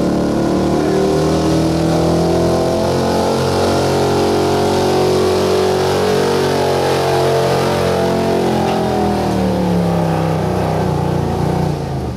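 1977 Ford F-350's gas engine held at full throttle while the truck drags a weighted pulling sled, running loud and steady. Its pitch climbs a little, then sags over the last few seconds as the load builds and the engine bogs down, and the sound falls away near the end.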